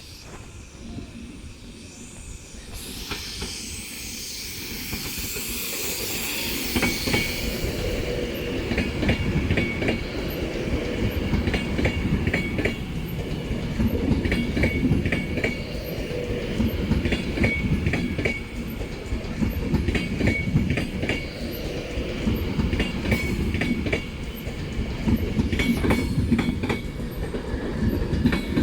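A train approaching and running past, growing louder over the first several seconds. Its wheels then click and clatter over rail joints and points.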